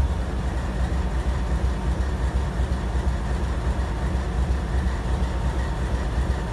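Freight train rolling past, a steady noise of railcars and locomotive, strongest in the lows, with no breaks.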